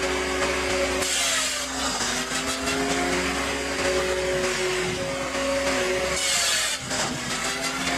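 Firewood processor running with a steady machine hum, with two bursts of hissing noise, about a second in and about six seconds in.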